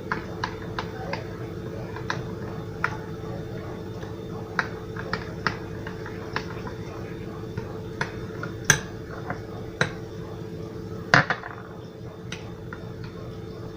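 A spoon clinking and tapping irregularly against a bowl as tahini sauce is stirred and thinned with water, with two louder knocks in the second half.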